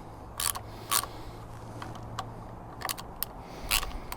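Scattered small clicks and taps, about half a dozen, from hands and a tool working the brake lever clamp on a motorcycle handlebar as the lever is shifted a couple of millimetres.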